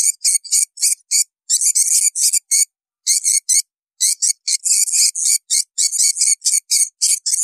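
Swiftlets twittering: rapid runs of short, high, thin chirps with brief pauses, the longest gaps about three and four seconds in. It is a swiftlet call recording of the kind played to lure the birds to a swiftlet house.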